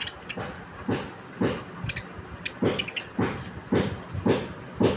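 Pet birds calling in a steady series of short calls, about two a second.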